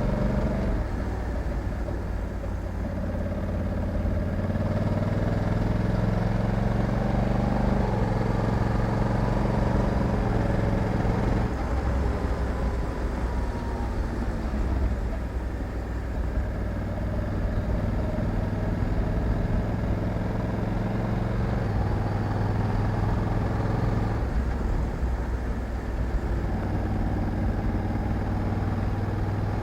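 Honda Africa Twin 1100's parallel-twin engine running under way, its note stepping up and down several times as the DCT gearbox changes gear.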